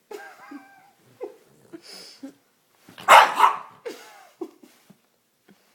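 A dog playing with a toy makes a string of short snorts, grunts and whiny noises, with a loud two-part bark-like outburst about three seconds in.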